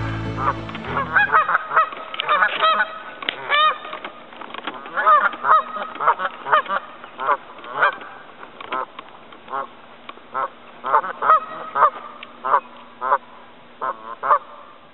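Birds calling: a long series of short, harsh, pitched calls in quick succession, some overlapping as if several birds call at once. Background music fades out about a second in.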